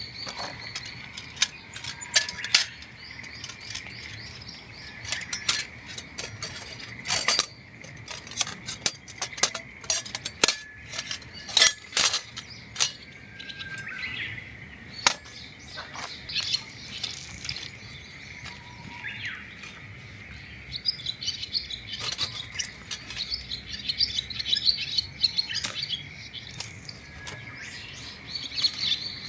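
Small birds chirping and singing, heaviest in the second half. Over the birdsong come many sharp clicks and clinks, like gear being handled, loudest and most frequent around the middle.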